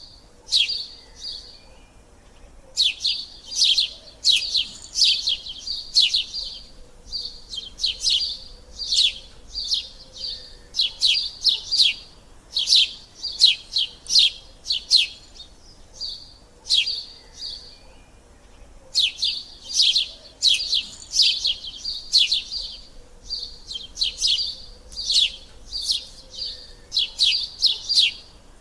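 Sparrows chirping: rapid runs of short, high chirps in repeated bouts with brief pauses between them.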